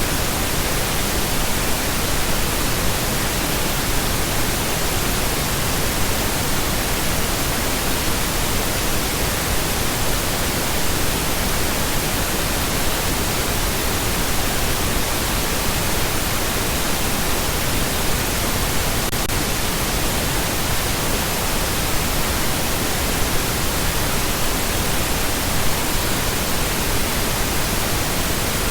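Steady, unbroken pink noise: an even hiss spread across all pitches, with no changes or events.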